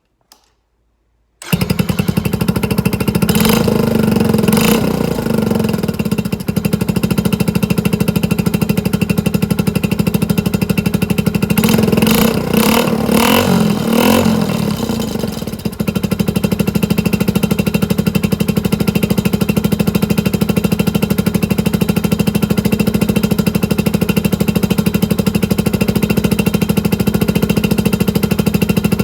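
Suzuki GN125's single-cylinder four-stroke engine running through a bullet-type aftermarket muffler. It comes in abruptly about one and a half seconds in and idles loudly. The throttle is blipped twice soon after, then several more times in the middle, before the engine settles back to idle.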